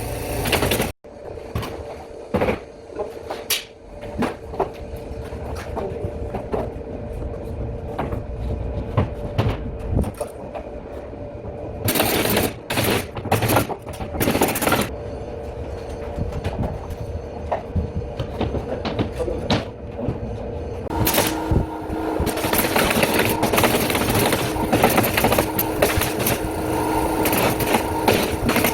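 Jobsite work noise: many sharp clicks and knocks over a steady machine hum, with the hum changing in pitch about three quarters of the way through.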